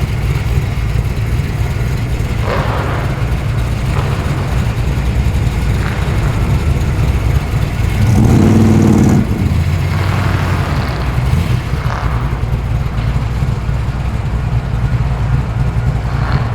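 Cars rolling past with a steady low engine rumble. About eight seconds in, one engine grows louder for roughly a second, with a clear pitched note, as a car passes close.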